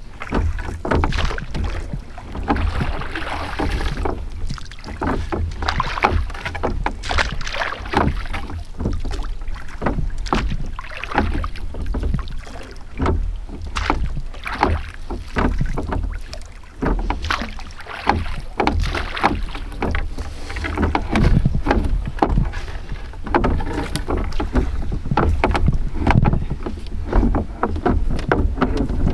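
Oars of a small dinghy being rowed, splashing in the water and knocking irregularly. Wind rumbles on the microphone underneath.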